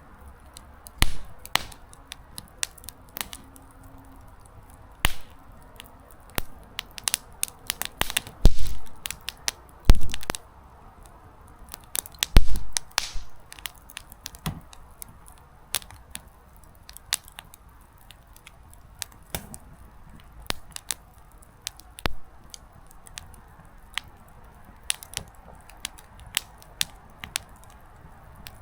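Small wood campfire crackling: firewood pops in irregular sharp snaps over a faint hiss. A few louder pops stand out, about one, eight, ten and twelve seconds in.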